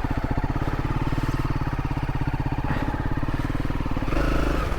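Motorcycle engine running at low revs over a rough trail, with a steady, rapid beat; about four seconds in the throttle opens and it gets louder.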